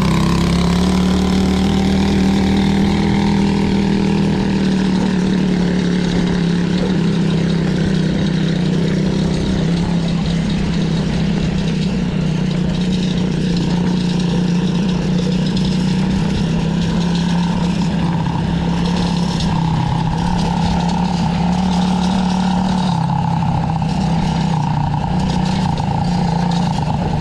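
Quad bike engine running at a steady speed as the bike is ridden.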